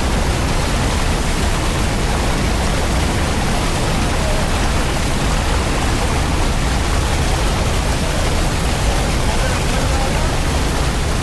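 Steady, loud rush of flowing canyon water, unchanging throughout.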